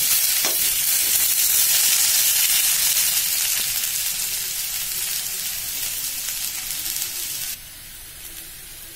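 Raw banana slices sizzling as they shallow-fry in hot oil in a wok-like karahi, being browned. The sizzle eases off gradually, then drops suddenly to a quieter level near the end.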